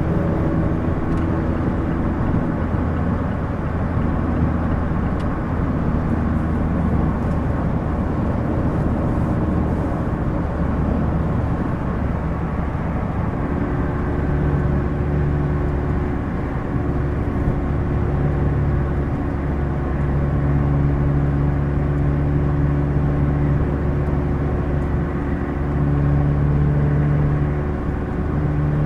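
2016 Mazda MX-5 Miata's four-cylinder engine running through a Goodwin Racing RoadsterSport race exhaust, heard from the driver's seat while cruising, a steady exhaust note over road noise. About halfway through the note changes to a new steady pitch, and near the end it dips briefly before picking up again.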